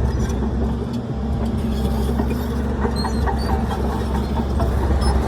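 Heavy diesel earthmoving machinery running steadily with a low engine hum, with light metallic clinks and rattles over it.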